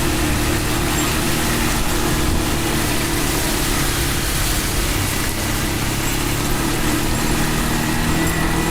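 Heavy rain pouring down and floodwater rushing along a street, a loud steady hiss, with a steady low hum underneath.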